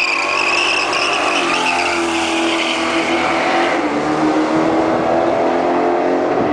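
A box Chevrolet Caprice's small-block V8 is revved hard as the car accelerates away. Its rear tires squeal for the first three seconds or so, and then the engine note holds steady.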